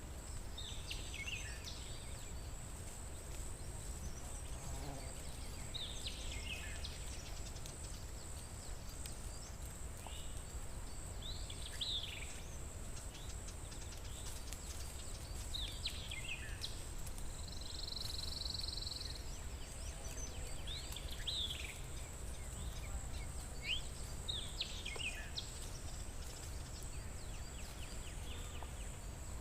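A songbird singing short phrases of falling notes, one roughly every five seconds, over a steady high-pitched insect drone. A low rumble runs underneath.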